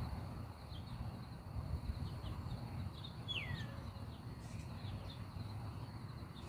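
Quiet outdoor background with a low rumble, faint bird chirps and one falling whistled bird call about three seconds in.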